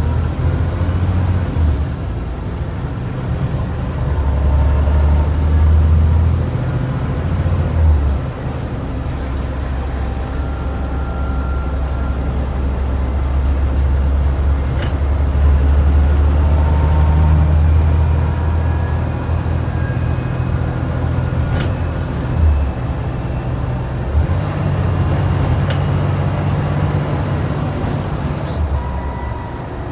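Scania N94UD double-decker bus's DC09 diesel engine pulling hard, rising and falling in pitch with short breaks between gears, with a high whine over it and a short hiss of the air brakes about nine seconds in.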